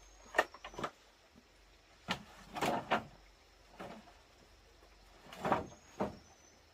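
A series of irregular knocks and scrapes, like objects being handled and set down, with the sharpest near the start and the longest about two and a half and five and a half seconds in.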